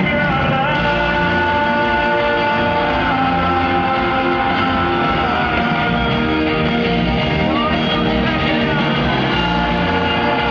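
Live band playing loud, amplified pop-rock, with guitars prominent and long held notes; this stretch seems mostly instrumental.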